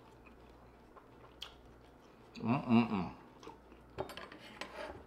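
Close-miked chewing with soft mouth clicks and smacks. About halfway through comes a short hummed "mmm" of enjoyment, the loudest sound here.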